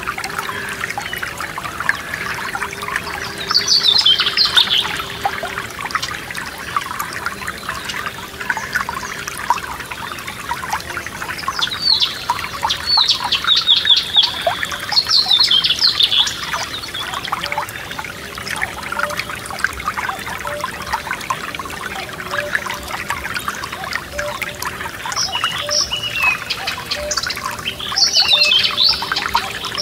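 A forest stream trickling and burbling steadily over stones, with songbirds singing over it: phrases of quick down-sweeping notes a few seconds in, again around the middle, and near the end.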